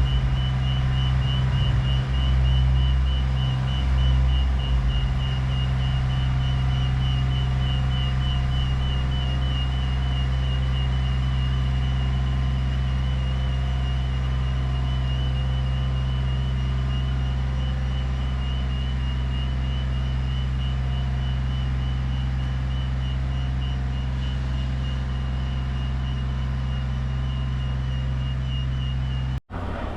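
Heavy lorry's diesel engine running steadily, heard from inside the cab, with a high electronic beep repeating evenly over it.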